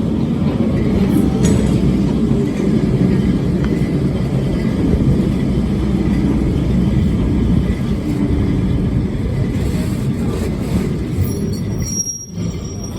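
Lisbon Tram 28 streetcar running along its rails, heard on board as a steady low rumble, with a brief high wheel squeal near the end.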